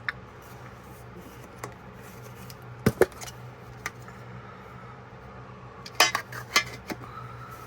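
Sharp metallic clicks and clinks from handling a pocketknife and small metal tools during cleaning: two close clicks about three seconds in and a quick run of clicks around six seconds. A steady low hum runs underneath.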